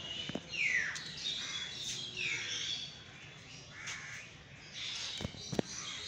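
Birds calling over one another in harsh, cawing calls, several sliding down in pitch. A few short knocks sound once early and twice near the end.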